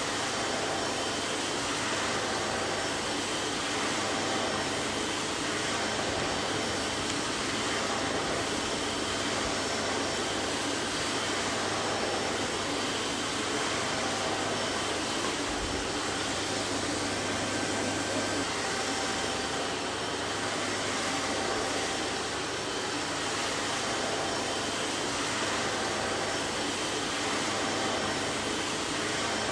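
Vacuum cleaner running steadily: a constant even rushing noise with a faint steady motor whine and a low hum, unchanging throughout.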